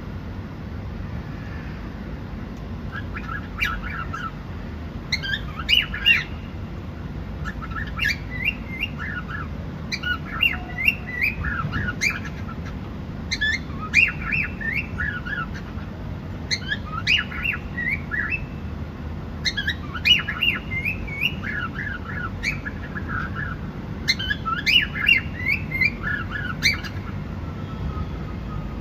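Cockatiel chirping in short bursts of quick chirps that repeat every couple of seconds, starting about three seconds in, over a steady low background hum.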